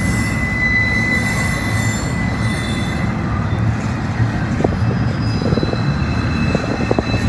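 Freight train rolling slowly past: a steady rumble with thin, high wheel squeal, and a few sharp clanks in the second half.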